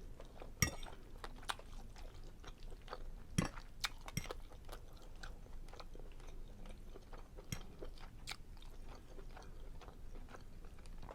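A person chewing and eating soft seafood linguine Alfredo close to the microphone: scattered wet mouth clicks and smacks, a few sharper ones about half a second in and again around three and four seconds in.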